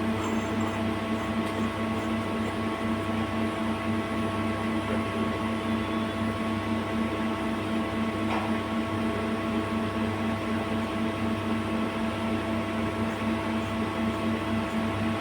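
CNC lathe running with a steady, even hum made of several fixed tones.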